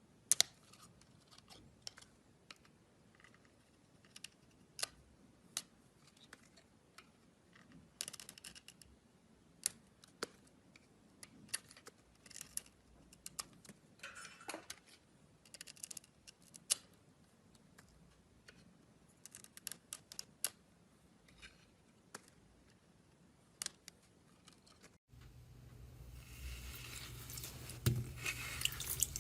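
Slime being played with for ASMR: sharp, irregular clicks and short crackles. About 25 seconds in it cuts to a louder, wet, squishy sound.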